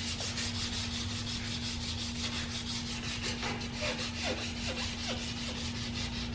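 Sandpaper, 180 grit, hand-sanding dried body filler on an aluminum wheel rim in quick, even back-and-forth strokes.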